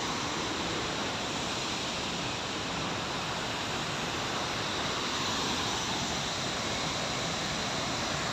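Waterfall, a steady rush of falling water with no change throughout.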